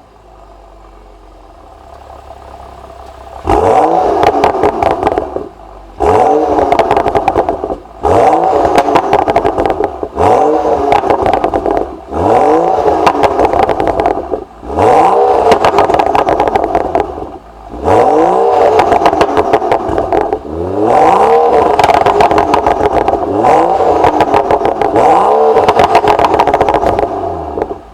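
BMW M235i's N55 turbocharged straight-six, breathing through a catalytic downpipe and cat-back exhaust, idling for a few seconds and then revved again and again, each blip climbing in pitch and falling back, about every two seconds.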